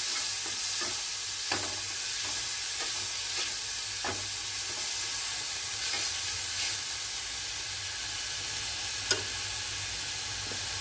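Ground onion, ginger and garlic paste sizzling in hot oil in a metal kadhai while a metal spatula stirs it, with a few sharp taps and scrapes of the spatula against the pan.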